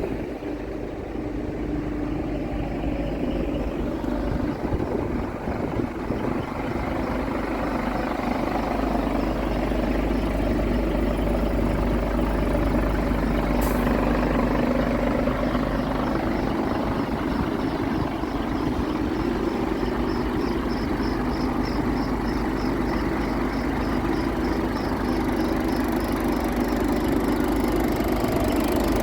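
An engine running steadily, growing slightly louder over the first ten seconds or so.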